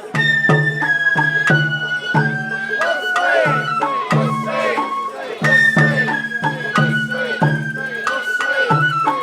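Sawara bayashi festival music: a shinobue bamboo flute playing a held, stepping melody over taiko drums struck in a steady beat of about two strokes a second.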